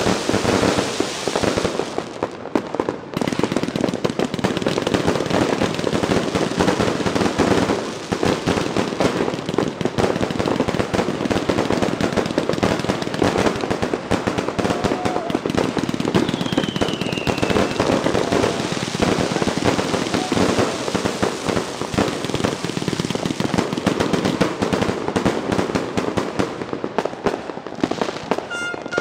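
A 500-shot fireworks cake firing shot after shot in a rapid, nearly unbroken stream of launches and bursts, with a brief lull about two seconds in.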